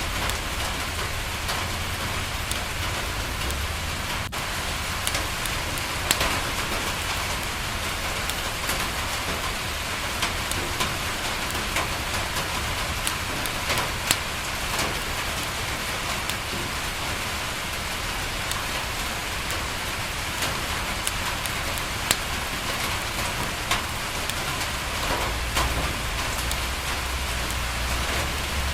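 Steady rain falling on a window, with scattered sharp ticks and a few louder pops.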